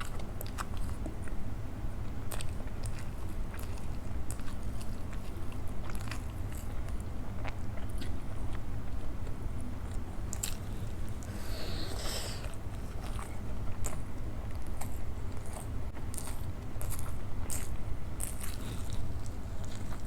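Close-miked mouth sounds of a person chewing soft idli dipped in sambhar and chutney, with many small wet clicks scattered throughout. A low steady hum sits underneath.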